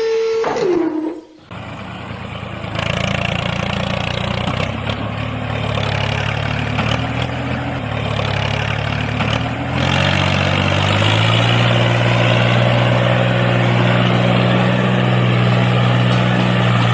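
A motor's high whine drops in pitch and cuts out about a second in. Then a low, steady motor drone takes over, shifting pitch a couple of times before holding steady: the mini tractor's drive motor running.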